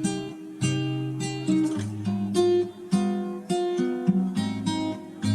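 Background music: acoustic guitar strumming and plucking chords, with sharp note attacks several times a second.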